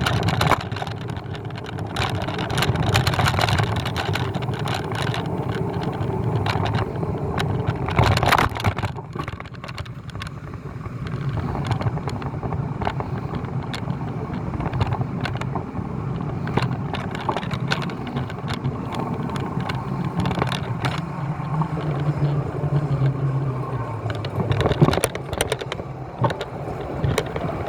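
Steady low rumble of vehicle and road noise, with frequent short knocks and rattles.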